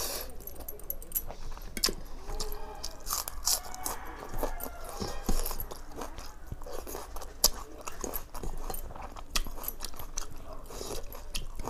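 Close-up chewing and crunching of a person eating by hand, mouthfuls of fermented water rice with fried prawns and raw green chili, with many short sharp clicks throughout.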